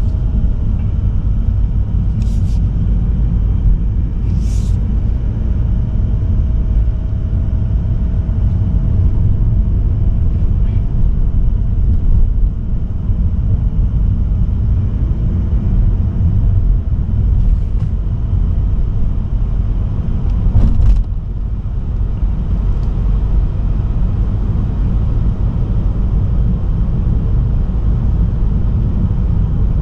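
Steady low rumble of a Mazda3 sedan on the move, mostly tyre and road noise, with a 1.8-litre diesel engine under it. Near the start come a few faint clicks, and about 21 seconds in a brief sharp knock.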